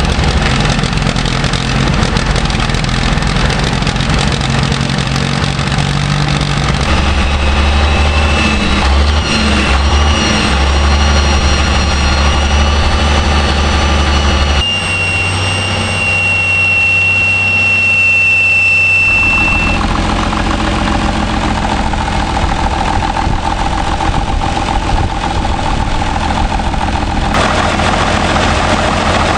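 Caterpillar DW20's turbocharged diesel engine running loud and being revved, with a high turbo whistle over it. The whistle is loudest a little past the middle, sinks slightly in pitch and stops, and the engine sound changes abruptly a few times.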